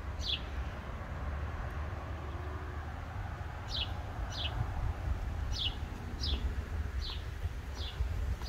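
A bird calling repeatedly in short, falling chirps: one near the start, then a steady run from about four seconds in, a little more than one a second. A steady low rumble lies underneath.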